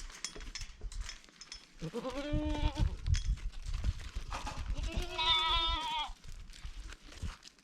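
Dairy goat bleating twice, a shorter quavering bleat about two seconds in and a longer one about four and a half seconds in.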